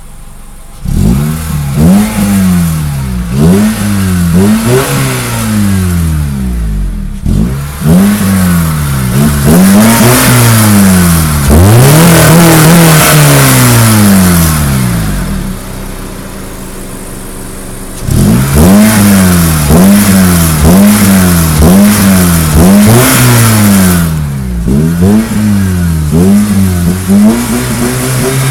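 Acura car engine revved through its single exhaust in repeated quick blips, about one a second, each rising and falling in pitch, with a few longer held revs. It drops to a steady idle for a couple of seconds past the middle, then the blipping starts again.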